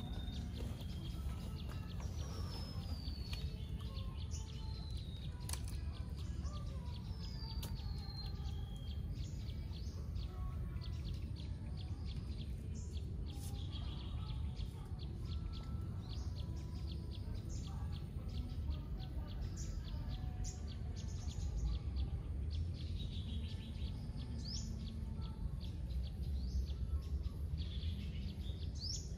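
Outdoor ambience of several birds calling, with repeated short falling whistles and quick chirps, over a steady low rumble.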